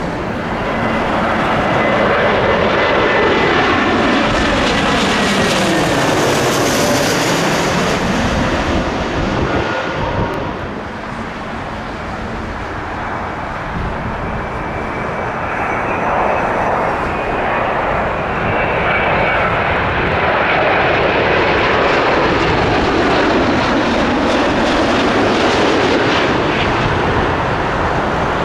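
Jet airliner passing low overhead, its engine whine sliding down in pitch as it goes by, then a second long swell of jet noise about halfway through.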